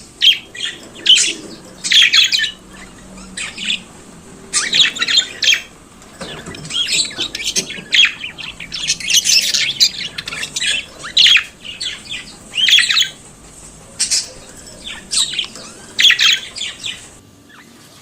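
Budgerigars chattering and singing: irregular bouts of rapid warbles, chirps and squawks.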